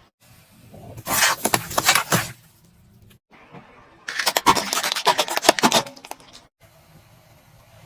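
Brittle objects crunching and cracking as a car tyre rolls over them, in two separate spells of dense crackling.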